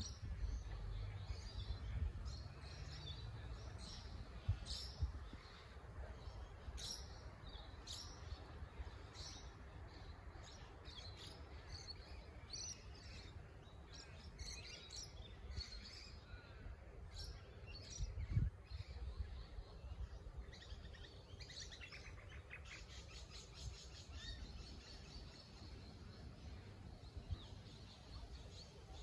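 Faint birds chirping and calling, with a low rumble underneath, strongest at first. A fast rattling trill of rapid repeated notes runs for several seconds in the last third, and a single low thump comes near the middle.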